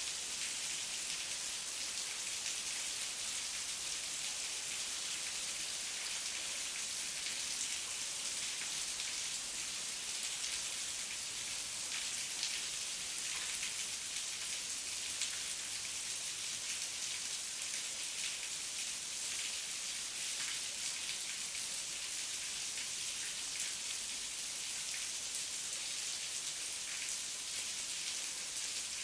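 Heavy rain falling steadily, a dense hiss of many fine drop patters on leaves and ground.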